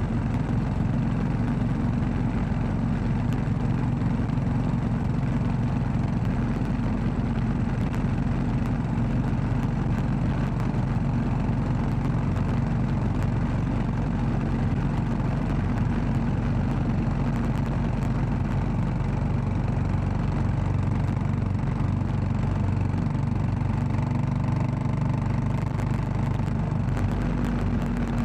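Royal Enfield Classic 500's single-cylinder engine running at a steady, even pitch.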